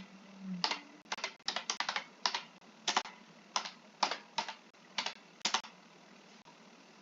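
Typing on a computer keyboard: a run of irregularly spaced key clicks that stops about five and a half seconds in.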